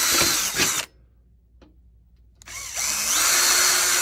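Electric drill boring a starter hole. It stops abruptly just under a second in, is quiet for about a second and a half, then spins back up and runs steadily again.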